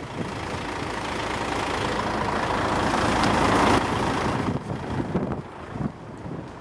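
Heavy lorry engine running close by, growing louder and then dropping away suddenly about four seconds in.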